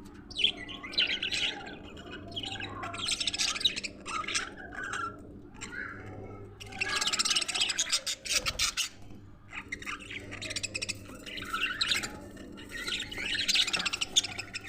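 Budgerigars chattering and warbling in clusters of a second or two, with short lulls between them. A faint steady hum runs underneath.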